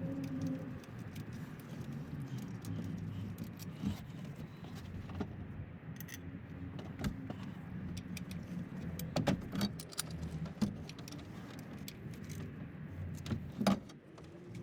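Scattered metallic clinks and taps of hand tools against engine parts, loudest in a few sharp knocks over the second half, over a steady low hum.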